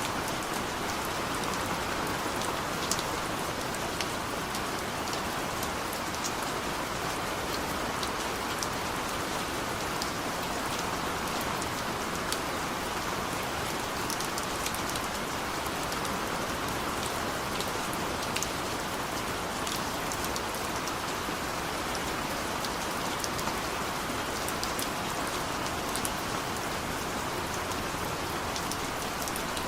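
Steady heavy rain falling, an even rushing hiss with scattered individual drops pattering throughout.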